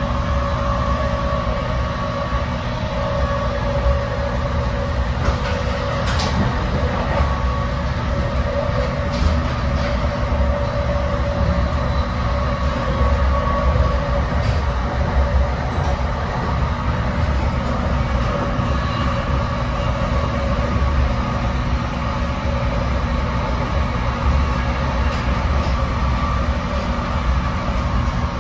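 Ride noise inside an NJ Transit Multilevel coach running at speed: a steady low rumble of the wheels on the rails with a constant hum over it and a few light clicks.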